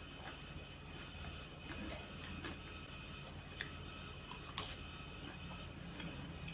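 Close-miked eating sounds of a plate of ketoprak: a few scattered small clicks and taps of mouth and utensil, the sharpest about four and a half seconds in, over a faint steady hum.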